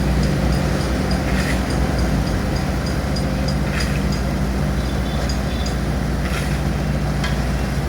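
A heavy engine runs steadily with a low hum under a broad rumble, with faint repeated ticking above it.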